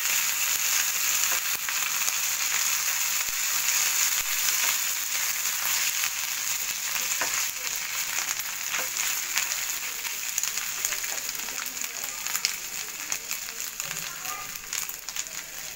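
Onion and ginger-garlic paste sizzling as they fry in oil in a pan, stirred with a silicone spatula. The sizzle grows quieter over the later part.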